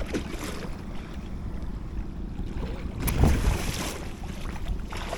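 Wind buffeting the microphone over open water, a steady low rumble, with a louder rush of noise about three seconds in that lasts about a second.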